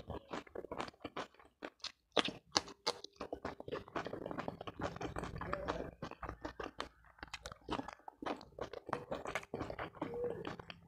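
Close-miked eating sounds: a person chewing food with irregular crunching and clicking, briefly pausing about two seconds in.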